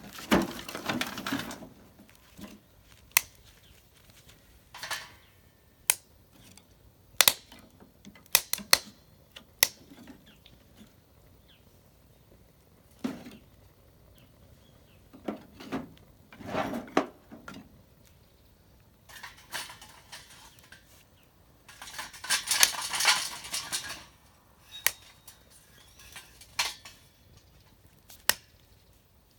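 Things being handled by hand: scattered sharp clinks and knocks of hard objects, with several stretches of rustling, the longest about two-thirds of the way through.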